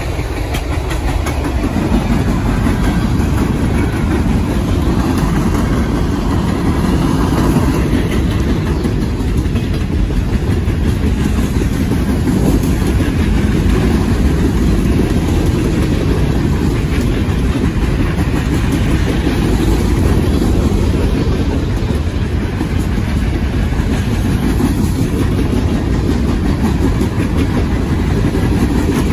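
Train rolling past on the rails: a steady, loud low rumble.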